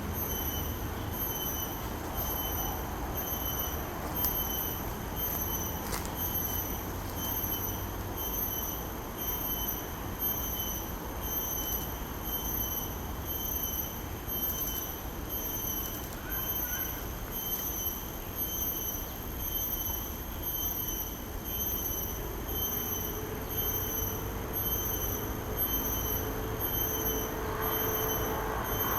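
Insects calling in a steady, evenly pulsing high-pitched chorus over a low rumble. A lower tone joins in during the last few seconds.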